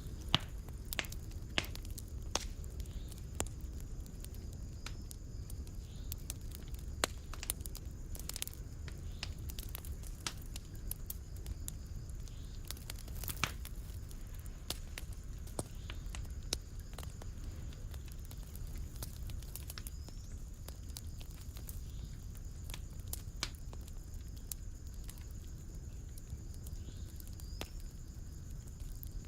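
Wood fire crackling: irregular sharp pops and snaps, a few louder ones, over a low steady rumble of the flames.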